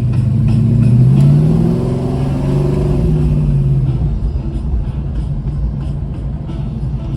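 A car engine revving, its pitch climbing for a second or so, holding, then falling away and fading.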